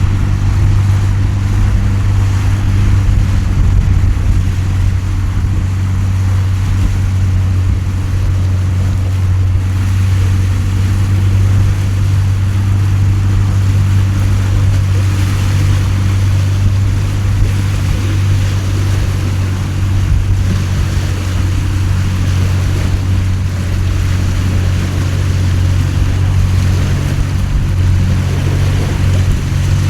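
Heavy rain hissing steadily over a constant low engine hum, like a fishing boat's motor running.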